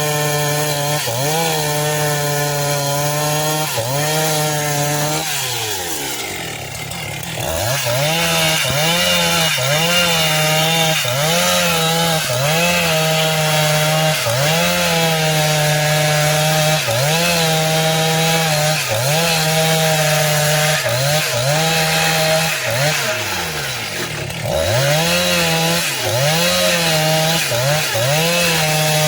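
Chainsaw running near full throttle while cutting the slab off a eucalyptus log. The engine speed dips about once a second as the chain bites into the wood. It falls off sharply twice, about five seconds in and again around twenty-two seconds, before climbing back.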